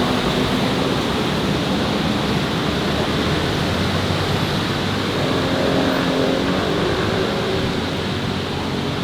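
City street traffic: a steady roar of passing vehicles, with the engine of a nearby vehicle heard more clearly near the start and again about five seconds in.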